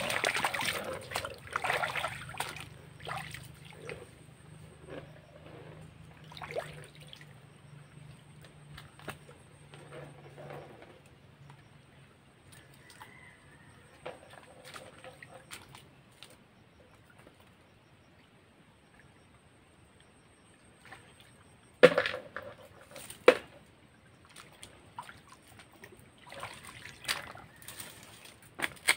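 Shallow stream water splashing and sloshing around a wader's feet in flip-flops, and small splashes and clicks as hands pick through stones in the water. Two sharp knocks come past the middle.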